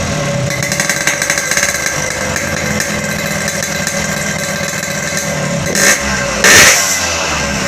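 Yamaha RX-King 135 two-stroke single-cylinder engine running through a custom side-outlet 'bobok' exhaust. It settles into a steady idle with a rapid crackle about a second in, and gives two short throttle blips near the end.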